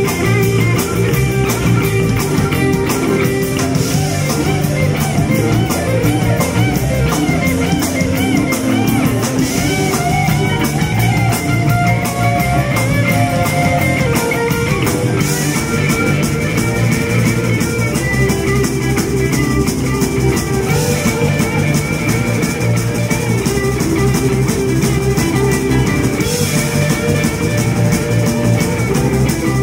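Rock band playing live without vocals: guitar lines over a full drum kit with fast, steady cymbal strokes and bass.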